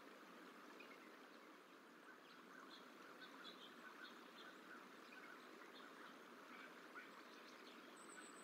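Near silence: a steady faint hiss of ambient noise with scattered short, faint bird calls from about two seconds in.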